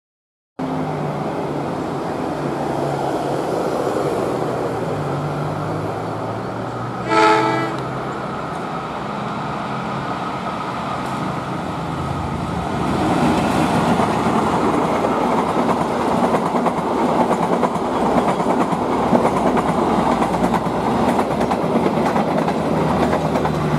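Diesel-hauled passenger train approaching and running through a station without stopping: a steady engine drone, one short horn blast about seven seconds in, then louder wheel clatter and rumble as the coaches pass close by.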